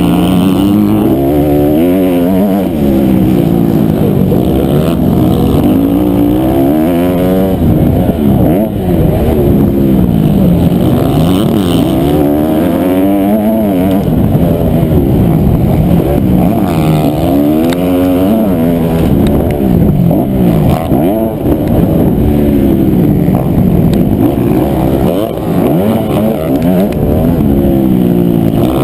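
Honda CRF250R's single-cylinder four-stroke engine running hard and loud, its pitch climbing and dropping back again and again as the throttle is opened and closed.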